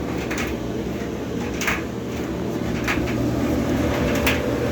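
Kenmore clothes dryer running: steady motor hum and drum rumble, with a short knock about every second and a half, which the repairman puts down to coins caught in the drum baffles. It runs now that its blown thermal fuse has been bypassed.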